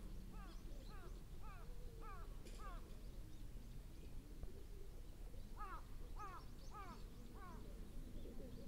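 A bird calling: short falling calls repeated about twice a second, a run that stops about three seconds in, then after a pause four more calls.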